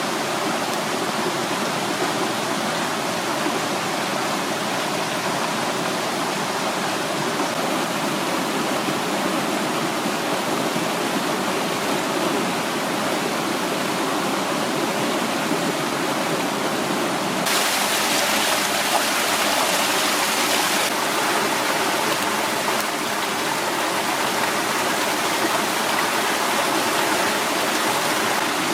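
Mountain valley stream rushing over rocks, a steady loud rush of water. About two-thirds of the way in, the sound turns brighter and hissier for a few seconds.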